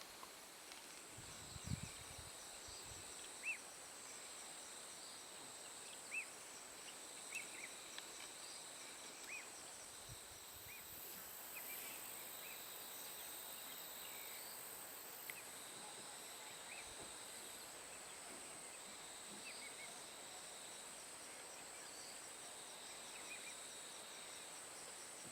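Bush ambience: a steady, high-pitched chorus of insects trilling, with a second, even higher insect joining for a few seconds midway. Short faint chirps repeat every second or two throughout.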